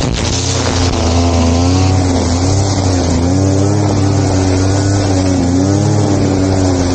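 Two-stroke grass-cutting machine engine running at high speed, its pitch dipping briefly several times as it takes cutting load.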